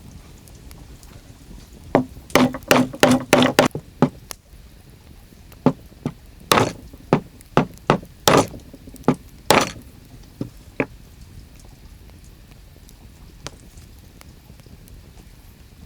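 Repeated sharp knocks like hammer blows: a quick run of about eight strikes, about four a second, with a slight ring, then about a dozen slower, evenly spaced strikes, and one faint knock near the end.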